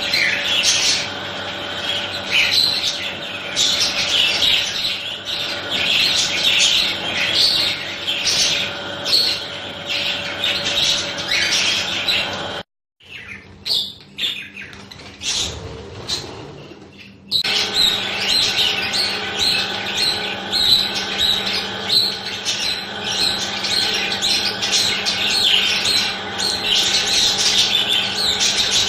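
A flock of budgerigars chattering in an aviary: many overlapping chirps and warbles, with a much quieter break about 13 seconds in that lasts about four seconds before the chatter resumes.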